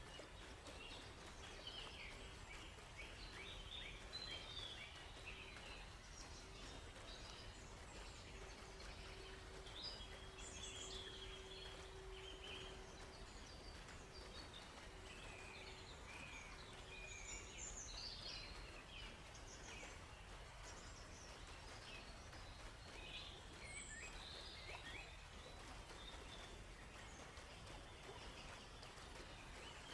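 Several wild birds chirping and singing in woodland, short calls and trills coming and going throughout. A faint steady hum runs beneath the birds for the first half and dies away partway through.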